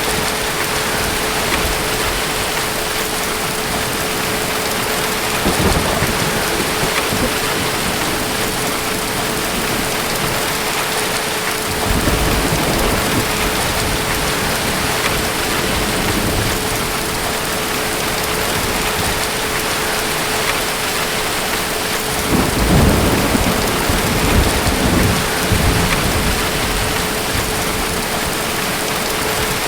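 Steady heavy rain with rolls of distant thunder: a low rumble about twelve seconds in and a longer, stronger one about two-thirds of the way through.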